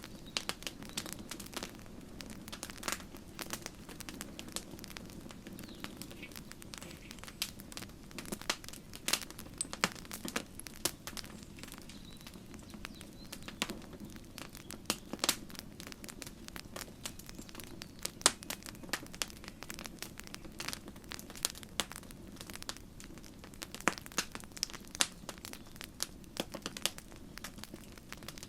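Wood campfire crackling, with irregular sharp pops and snaps, some much louder than others, over a low steady hiss of burning.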